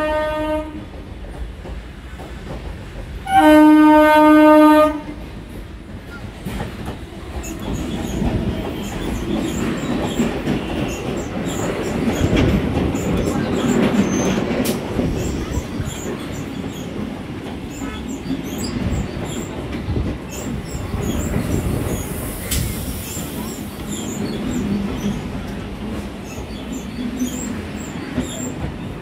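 Electric multiple-unit local train sounding its horn: a short blast at the very start, then a loud blast about three and a half seconds in that lasts about a second and a half. It then runs past close by, its wheels rumbling and clacking over the rail joints, with scattered squeals from the wheels.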